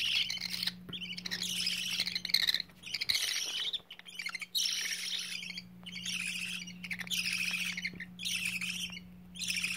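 Baby budgies crying in harsh, raspy screeches, about nine short cries in a row, each under a second. A steady low hum runs underneath.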